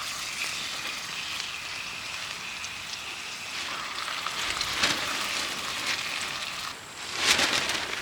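Food sizzling steadily in a hot pan over a campfire, with louder surges of sizzle about five seconds in and again near the end.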